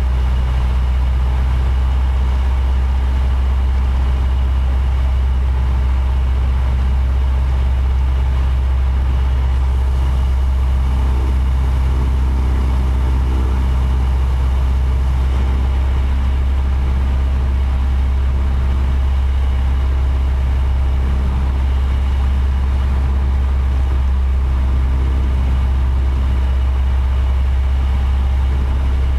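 Small aircraft's piston engine and propeller running at a steady, unchanging drone.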